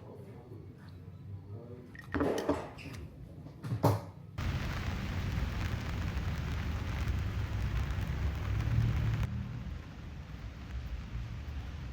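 Two short knocks, then heavy rain on the van comes in suddenly about four seconds in as a dense hiss with a deep rumble. It drops to a lighter, thinner rain noise about nine seconds in.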